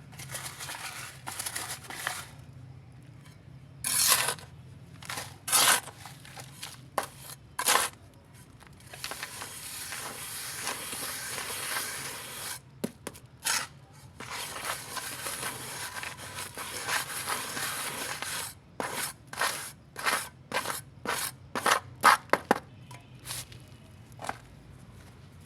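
Wet shape-making paste being scraped and poured out into shapes: a series of irregular scraping strokes with short sharp scrapes and plops, and a longer continuous scrape lasting about three seconds near the middle.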